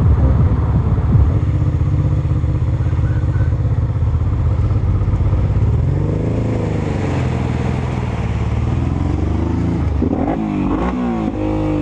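Motorcycle engine running under way, the revs rising and falling about six seconds in and climbing again in a few quick steps near the end.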